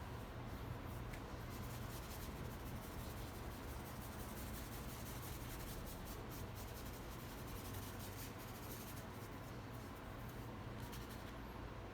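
Paintbrush strokes rubbing paint across the painting surface, a faint irregular scratching and brushing while blending, over a low steady hum.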